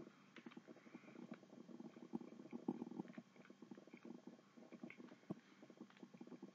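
Faint chewing of a Pop-Tart toaster pastry close to the microphone: soft, irregular crunches and mouth clicks.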